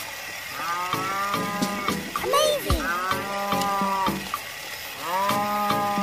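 A cow mooing: three long calls held at a steady pitch, with a short rising-and-falling squeal between the first two.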